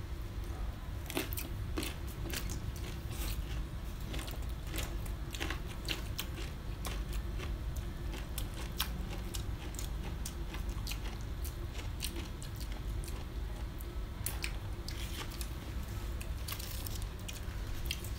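People chewing and biting food close to the microphone, with many short crisp clicks and crunches scattered throughout, over a steady low hum.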